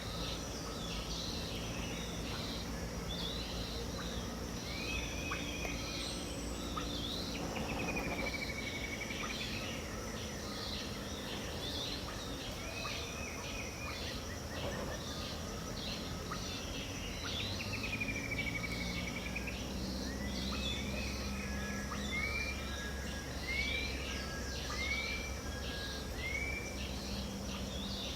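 Dawn chorus of many birds in Pantanal wetland: overlapping calls and whistles, with a long swooping whistle twice and a series of short arched notes about one a second near the end, over a steady high insect hum.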